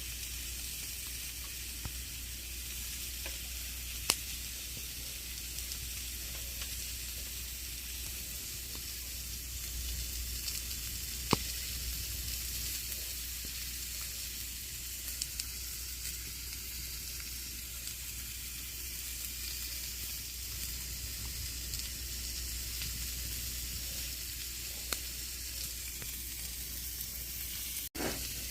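Campfire burning: a steady hiss of the flames with scattered sharp crackles and pops, two louder pops about 4 and 11 seconds in. The sound drops out for an instant near the end.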